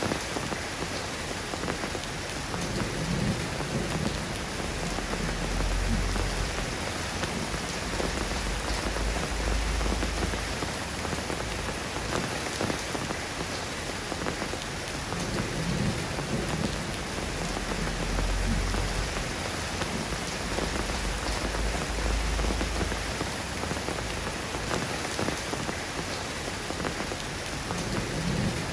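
Steady soft rain falling, an even hiss of drops, with a low rumble swelling up twice, about five seconds in and again about eighteen seconds in.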